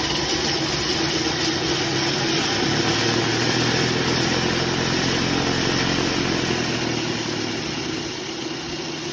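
Converted RFZ electric dirt bike running under its own power: a steady motor hum with a broad hiss over it, a deeper tone joining about three seconds in, easing off slightly near the end.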